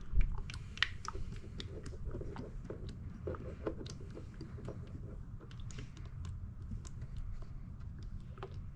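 Irregular small clicks and crackles of a plastic quart oil bottle being handled and tipped while the last of the engine oil is poured in, with a sharper knock just after the start over a steady low hum.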